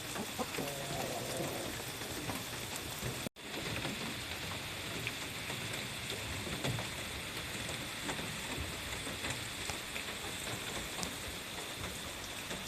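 Steady rain pattering, with a hen's soft, wavering call about a second in. The sound drops out for an instant about three seconds in, then the rain carries on.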